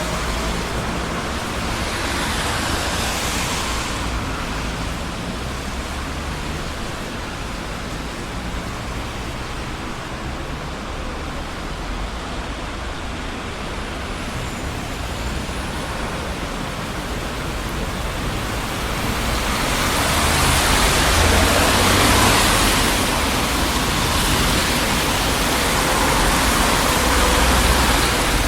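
Steady noise of dense traffic on a busy city street: tyre hiss and engine rumble, swelling as vehicles pass at about two seconds in and again through the last third.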